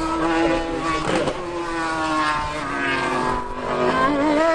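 High-revving racing engine running hard, its pitch sagging slowly and then climbing sharply near the end as it accelerates.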